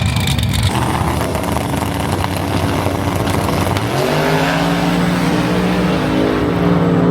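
Drag-racing car engines running loud and close. About four seconds in, one engine settles into a steady held note that climbs slightly in pitch.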